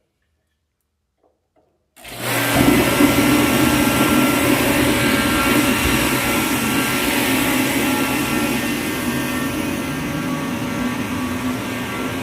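A steady motor or blower running, cutting in abruptly about two seconds in after near silence, with a low hum under a broad rushing noise.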